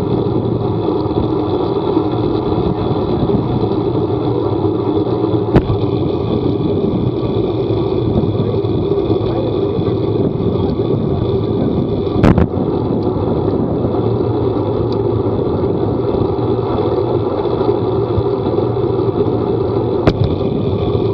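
Steady running noise of a vehicle on the move, with three sharp knocks: about five seconds in, near the middle, and near the end.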